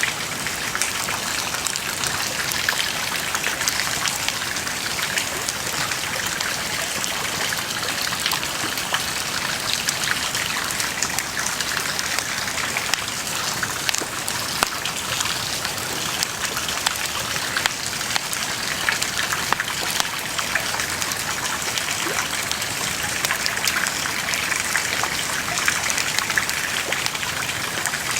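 Wood bonfire burning: a steady hiss with frequent sharp crackles and pops.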